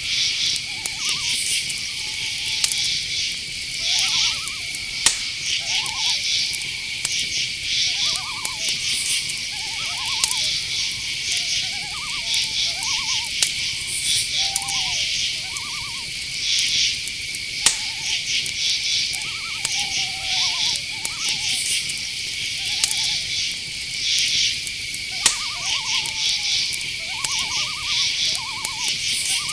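Night insect chorus: crickets keep up a steady high trill with pulsed chirping above it. Short, rapidly pulsed calls lower in pitch come every second or two, and a few sharp clicks sound now and then.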